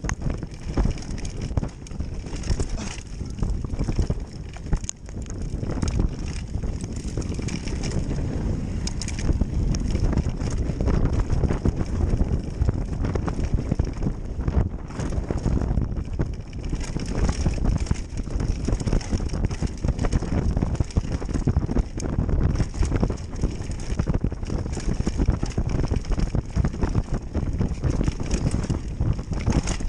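Bicycle riding down a rough trail: steady wind rumble on the microphone with constant rattling and clattering from the bike over the ground.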